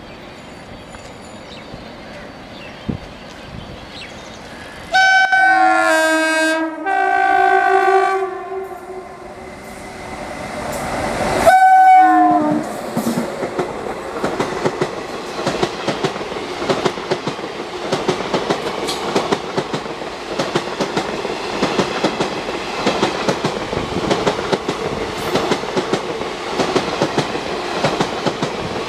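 Electric locomotive horn: two long blasts about five seconds in, then a shorter, loudest blast around eleven seconds as it goes by. This is followed by the steady rumble and rhythmic clickety-clack of passenger coaches passing at speed.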